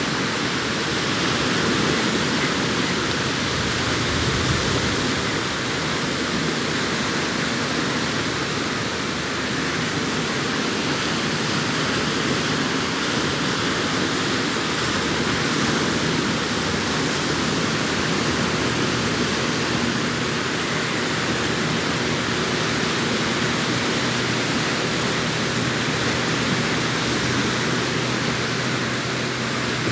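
Sea waves breaking on a sandy beach: a continuous rush of surf that swells and eases slightly in loudness.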